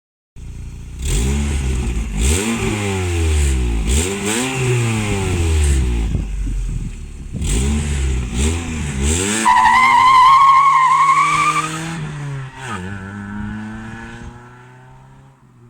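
Lada Priora's exhaust as the engine is revved in a string of quick blips, rising and falling, with sharp cracks at several of the peaks. Then the revs climb steadily with a strong whining tone, drop sharply once, climb again and fade away.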